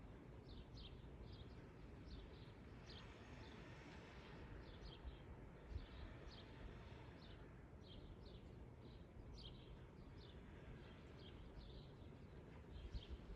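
Faint bird chirping: short high chirps, two or three a second, over a low steady rumble.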